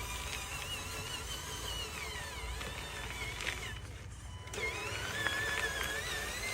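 Small electric drive motors and gearboxes of radio-controlled construction machines whining, the pitch rising and falling as they are throttled. The whine eases off briefly about four seconds in, then picks up again.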